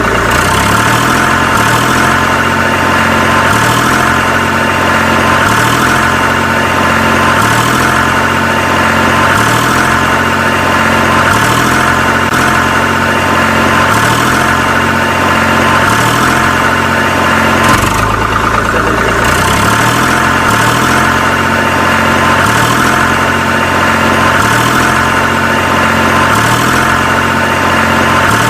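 Steady engine-like running sound, as of a tractor engine, with a low pattern that repeats about every two seconds under a steady high whine.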